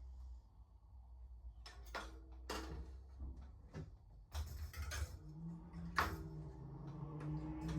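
A series of separate knocks and clicks, like parts and tools being handled during e-bike assembly, over a low steady hum. The sharpest knock comes about six seconds in.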